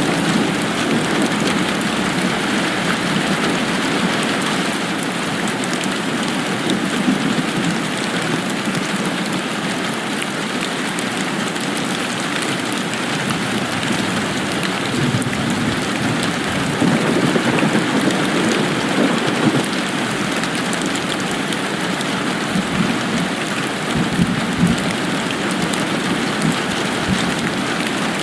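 Steady rain falling, with low rumbling swells about halfway through and again near the end.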